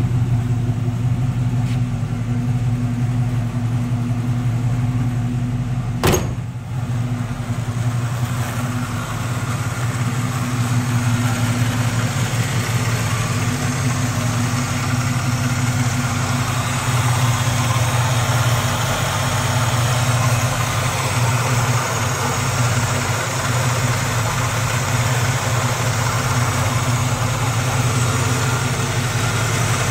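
El Camino's carbureted engine idling steadily, with one sharp knock about six seconds in. From about ten seconds on the idle sounds brighter and closer, heard from the open engine bay.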